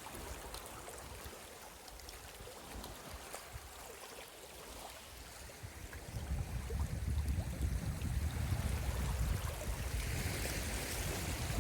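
Sea water washing and trickling among shore rocks. A low rumble, likely wind on the microphone, comes in about halfway through.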